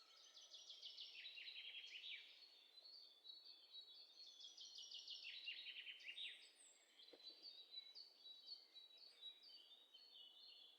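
Faint songbirds singing: twice, a fast trill of short notes that drops in pitch, with shorter high chirps between.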